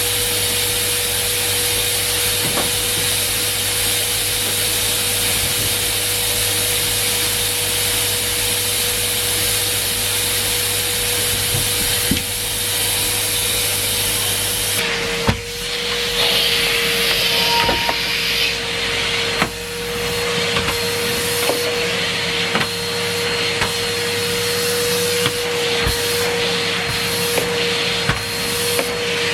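Numatic Henry Pet vacuum cleaner running with a steady whine and rushing air. About halfway through, the airflow sound changes, and light knocks and rubbing follow.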